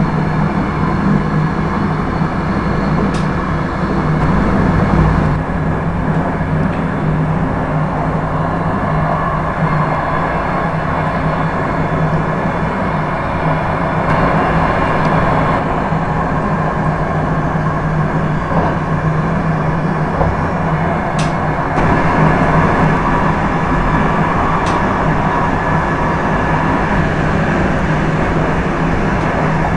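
Electric express train running at high speed, heard from inside: a steady rumble of wheels on rail with a constant low hum, and a few faint brief clicks.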